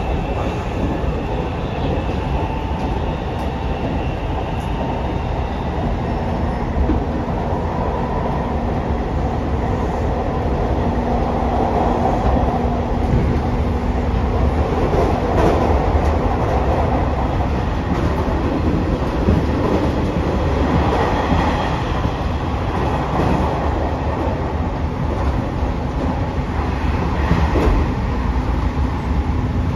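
Running noise inside a Hanshin 1000 series electric train car at speed: steady rumble of wheels on rail with some clickety-clack, and a faint steady hum from its Mitsubishi IGBT VVVF traction equipment. The noise swells a little about halfway through as the train runs past a station platform.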